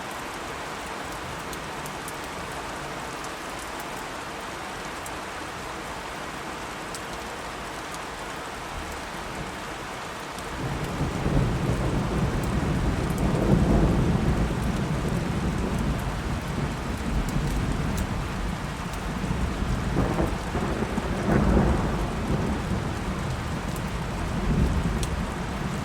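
Steady rain falling, then about ten seconds in a long low thunder rumble sets in and rolls on, swelling twice, over the rain.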